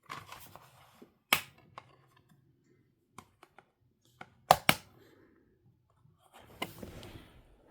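A few sharp knocks in a small room: one about a second in and a quick pair near the middle, with fainter ticks between, then a short stretch of rustling near the end.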